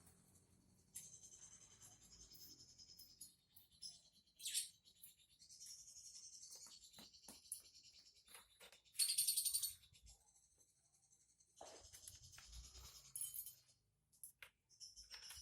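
Small cage songbird twittering and chirping in short high-pitched phrases, the loudest burst about nine seconds in, with scattered light clicks and taps in between.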